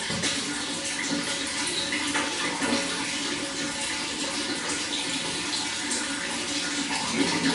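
Running water flowing steadily, an even rushing with light splashing throughout.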